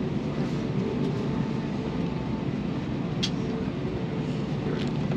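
Steady low rumble of an Airbus A321neo airliner cabin, with faint steady hum tones underneath and a sharp click about three seconds in.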